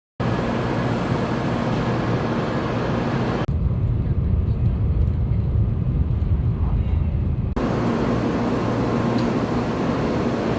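Shinkansen train running at speed: a steady low rumble and rush, in three short takes joined by abrupt cuts, the middle one duller.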